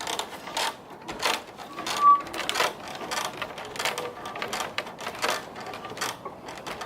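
Rope being hauled hand over hand through a pulley on a wooden frame, hoisting a weight: a run of rasping pulls, about one to two a second, with a brief squeak about two seconds in.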